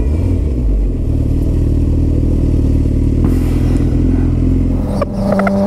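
Suzuki GSX-R1000 inline-four engine running steadily at low city speed. About five seconds in the sound dips briefly, with a few sharp clicks, and a higher steady tone joins it.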